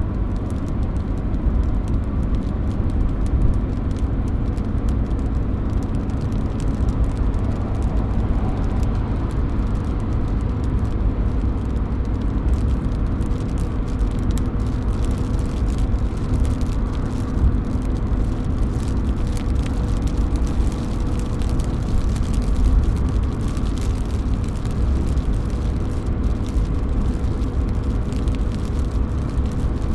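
Rain dripping and splashing off a roof edge: a steady dense patter with many small sharp drip ticks over a low rumble.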